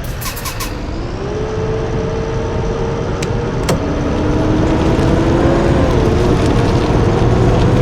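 Blue Bird bus engine pulling away and picking up speed: its note rises about a second in, then holds steady as the engine grows gradually louder, with two sharp clicks a few seconds in.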